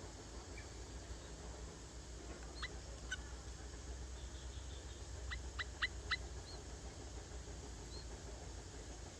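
A bird giving short, sharp calls: two single calls, then four in quick succession about a second apart from each other's neighbours, with a few faint chirps afterwards, over a steady low rumble.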